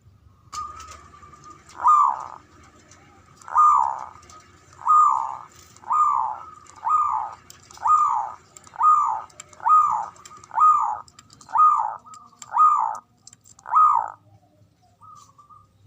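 Zebra dove (perkutut) calling: a short held note, then a run of about twelve falling cooing notes, coming faster at first and then roughly one a second, stopping about a second before the end.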